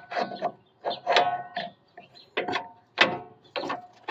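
A run of about eight sharp metallic clanks and clinks with a slight ring, as a new steel lower control arm is handled and offered up into the front suspension.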